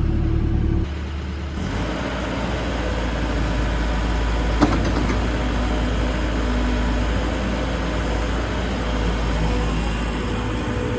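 Cat 313 FL excavator's diesel engine running steadily, with a single short knock about four and a half seconds in.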